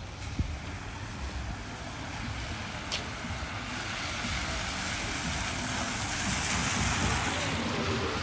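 Tyres hissing on a rain-soaked street as a vehicle passes, the hiss swelling over the last few seconds, with a low steady rumble underneath and one sharp click about three seconds in.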